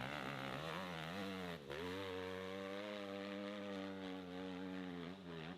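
Motorcycle engine running hard at high revs, its pitch wavering. The pitch dips sharply about one and a half seconds in, then holds high and fairly steady, and falls off again near the end.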